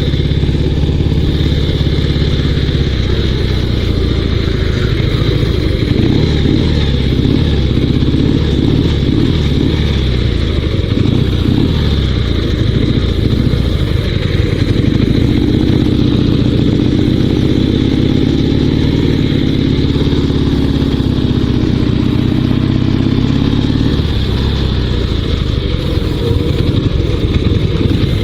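Dnepr 16 sidecar motorcycle's 650cc flat-twin boxer engine running, its revs shifting in the first half, then holding a steadier, higher note for several seconds past the middle before dropping back.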